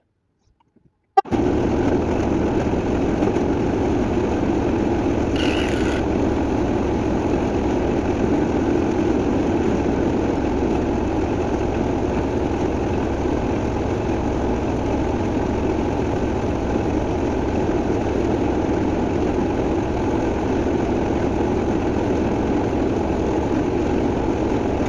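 A motor running steadily at an unchanging speed, switching on abruptly about a second in.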